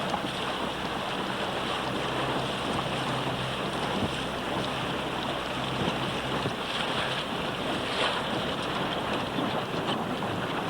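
Wind buffeting the microphone over water rushing and splashing around a boat under way on choppy water, steady throughout. A faint low hum sits underneath for the first half or so, then fades.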